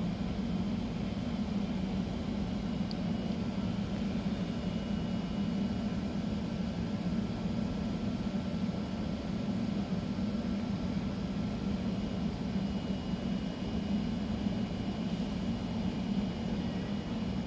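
A train at the station giving off a steady low hum with a faint, steady high whine above it, unchanging in pitch throughout.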